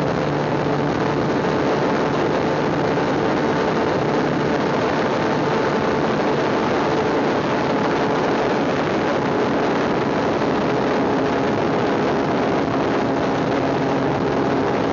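Motorcycle engine running at a steady speed under a constant rush of road and wind noise.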